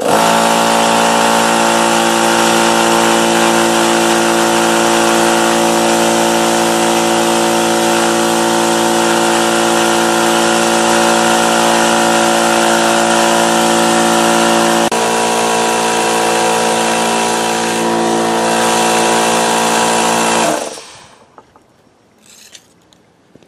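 Central Pneumatic 2 hp, 8-gallon oil-lubricated air compressor running loudly and steadily on its break-in run, its tank held open so the pumped air blows straight out instead of building pressure. It starts at once and stops about twenty seconds in.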